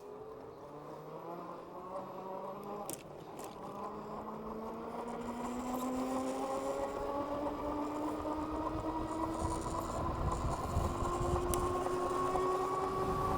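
The dual hub motors of a Philodo H8 AWD electric bike whine as the bike picks up speed, the pitch climbing slowly and steadily and growing louder, with rising road and wind noise underneath.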